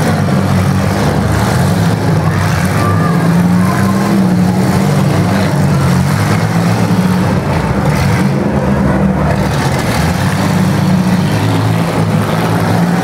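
Demolition derby cars' engines running together as the cars drive and push in the arena, a loud, steady low rumble.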